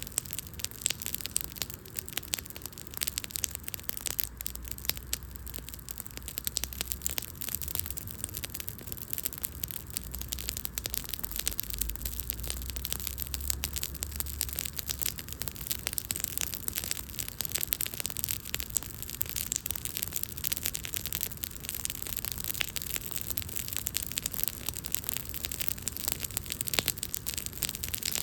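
Wood fire crackling: a dense, irregular run of small sharp pops and snaps over a steady hiss of burning.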